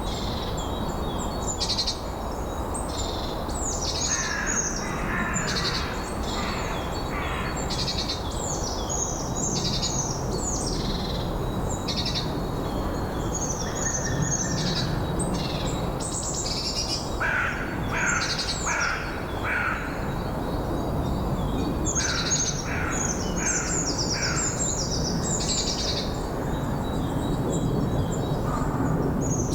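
Several songbirds singing and chirping in quick, repeated high phrases, over a steady wind rumble.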